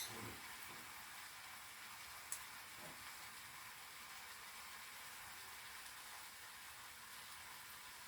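Vegetables frying in a pan, a faint steady sizzle, with a light sharp click a little over two seconds in.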